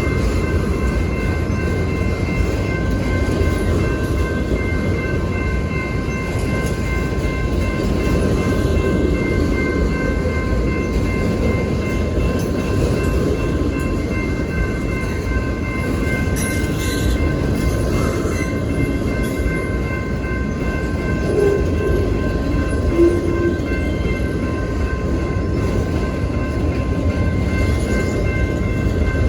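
Freight train rolling past, a steady rumble of cars on the rails, with a few faint steady high-pitched tones running through it.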